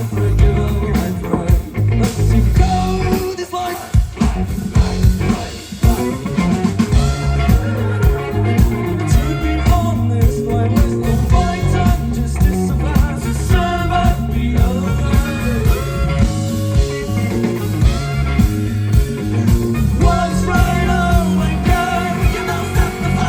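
Rock band playing live: drums keeping a steady beat under bass and electric guitar, with a singer's voice over the top.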